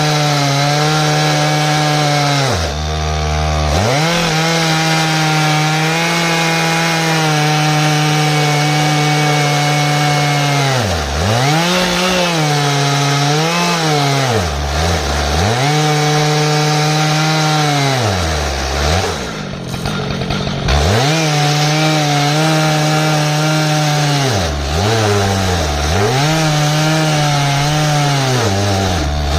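Stihl MS 881 two-stroke chainsaw running at high revs on an Alaskan chainsaw mill, ripping an ash log lengthwise into slabs. The engine note dips and recovers several times, dropping furthest about two-thirds of the way through.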